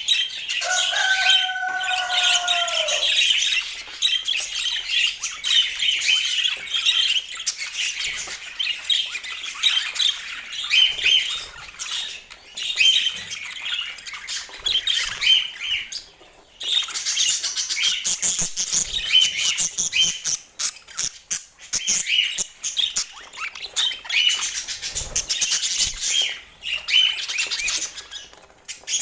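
Budgerigars chattering and warbling in a rapid, continuous stream of high chirps and squawks, with one lower, falling call near the start and a brief pause about halfway through.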